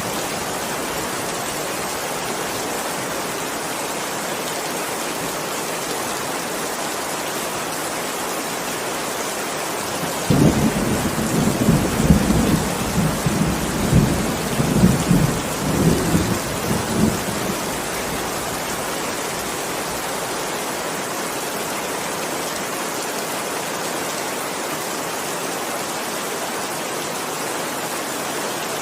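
Steady heavy rain with a roll of thunder rumbling for about seven seconds near the middle.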